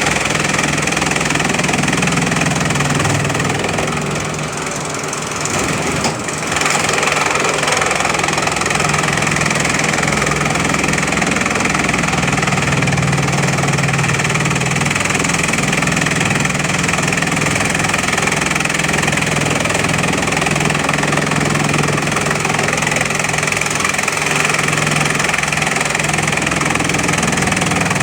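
Bamboo chipping machine running steadily, a continuous mechanical drone with a low hum, easing off a little for a couple of seconds about four seconds in.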